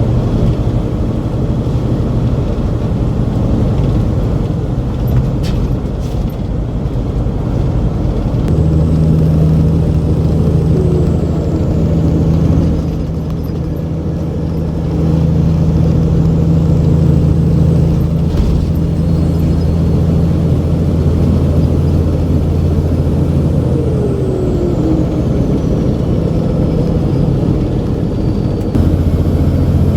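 Loaded semi truck's diesel engine running under steady load. Its note steps up about eight seconds in, drops away briefly near the middle and picks up again, as with gear changes or easing off and back on the throttle.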